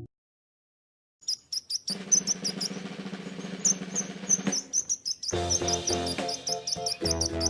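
A small bird chirping in quick, high, repeated chirps, several a second, starting about a second in, with background music coming in under it.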